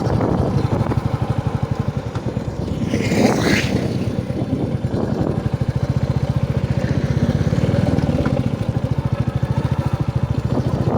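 Royal Enfield motorcycle engine running under way, a steady, even pulsing exhaust beat. A brief rushing noise rises and falls about three seconds in.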